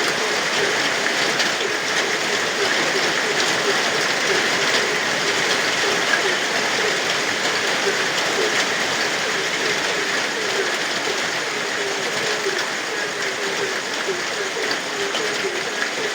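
Steady rain falling, with a chorus of frogs calling in quick repeated notes over it.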